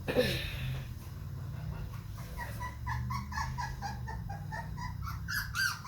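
Young American Bully puppy whimpering in a string of short, high cries, several a second, after a brief rustle near the start.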